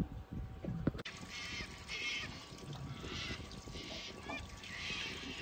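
Birds calling: a series of short, high calls repeating about once a second, over a low background rumble.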